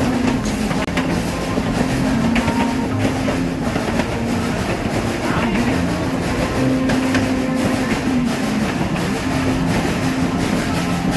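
Narrow-gauge excursion train running along the track: a steady rumble of wheels on rails with clicks from the rail joints and a low hum that comes and goes.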